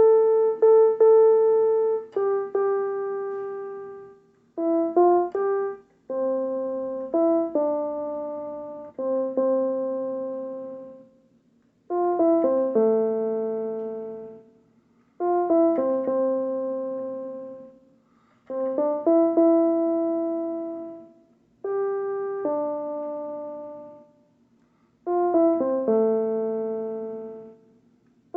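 Slow hymn melody played on a piano-style keyboard, one note at a time. The notes come in short phrases of a few notes, each fading away, with brief pauses between phrases.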